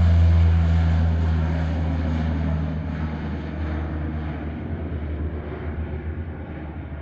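Embraer EMB-120 Brasilia twin-turboprop departing on takeoff: a steady low propeller drone that fades away as the aircraft moves off.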